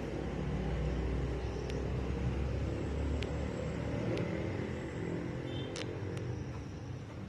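An engine running steadily with a low rumble that eases a little in the second half, with a few light sharp ticks over it.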